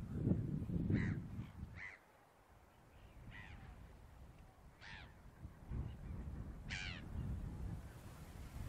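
Birds on the mudflats calling: five short calls a second or two apart, the last one the loudest, over gusting wind rumbling on the microphone, strongest in the first two seconds.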